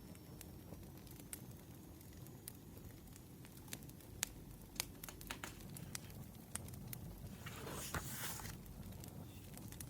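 Wood fire crackling faintly, with irregular sharp pops over a low steady rumble. A brief rustle about eight seconds in.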